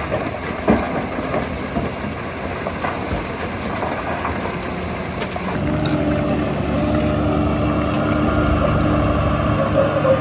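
Heavy diesel earthmoving machinery running, with scattered metallic clanks in the first half. About halfway through, an engine note steps up louder and holds steady, as under load.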